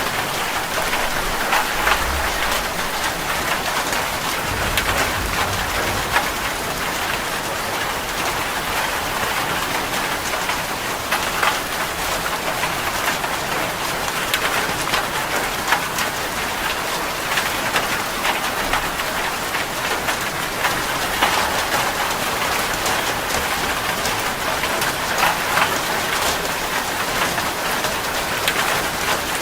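Heavy rain falling on a metal roof: a steady dense hiss full of individual drop hits, with a faint low rumble in the first few seconds.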